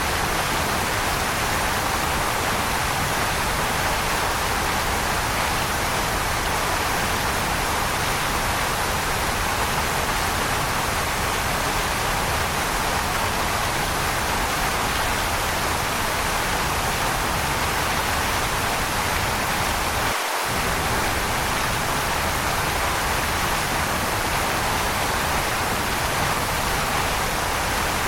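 Waterfall: a steady, even rush of falling water. About twenty seconds in, its low rumble drops out for a split second.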